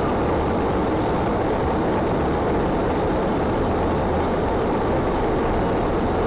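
Steady, loud, unchanging rumble and rush of vehicle noise.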